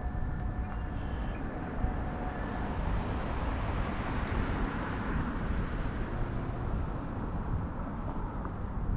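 A road vehicle passing by: tyre and engine noise swells to a peak about halfway through and then fades, over a steady low rumble.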